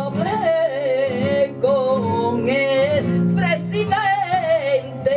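Flamenco cante for tientos: a singer holds long, wavering, ornamented phrases over flamenco guitar accompaniment, with short breaks between phrases.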